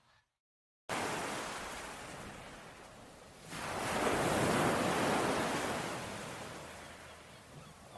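Ocean surf washing ashore. It cuts in abruptly after a moment of silence, and a bigger wave swells about three and a half seconds in, then slowly recedes.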